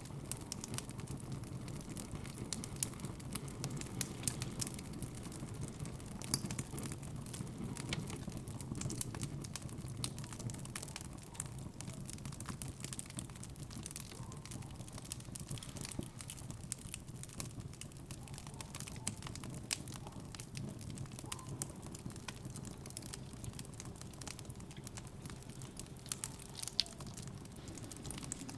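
Wood fire crackling: irregular sharp pops and ticks over a low steady rumble.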